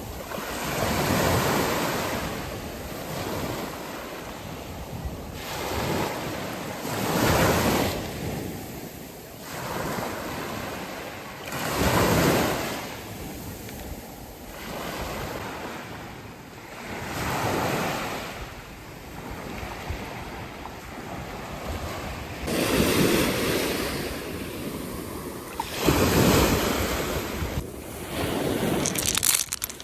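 Sea waves washing in, swelling and fading about every five seconds, with some wind on the microphone.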